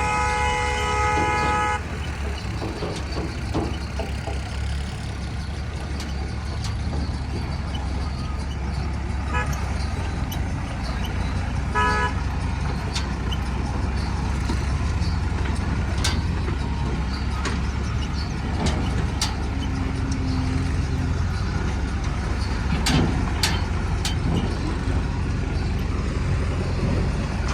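A vehicle horn sounds for the first two seconds. A diesel engine then runs steadily, with two brief horn toots in the middle and scattered clicks and knocks.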